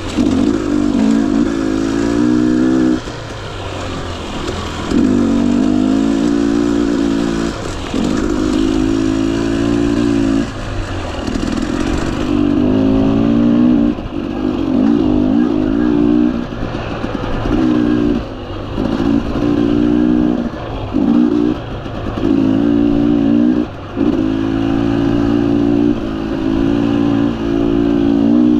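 Husqvarna TE250i two-stroke single-cylinder dirt bike engine, ridden hard on the throttle: repeated bursts of revving a second or a few seconds long, each broken by a brief drop where the throttle is closed.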